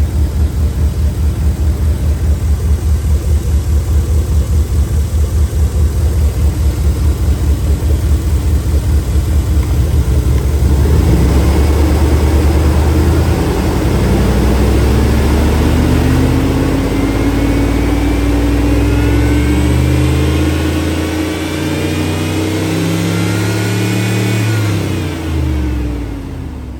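A 2000 Silverado's 5.3L V8 is tested for sale. It idles steadily with an even pulse, then about halfway through it is revved up and held at raised rpm. Near the end the revs fall back and the sound dies away.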